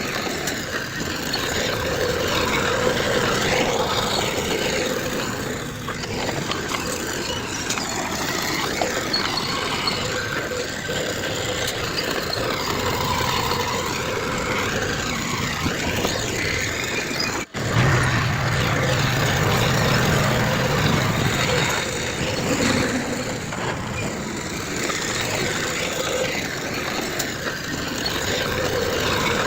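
Heavy diesel earthmoving machinery running steadily under work. There is a brief dropout about two-thirds of the way through, after which a deeper engine drone stands out for a few seconds.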